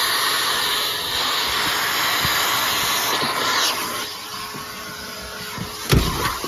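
1997 Numatic Sir Henry vacuum cleaner running, its nozzle sucking air with a steady hiss and a faint motor hum that gets quieter about four seconds in. A sharp knock about six seconds in.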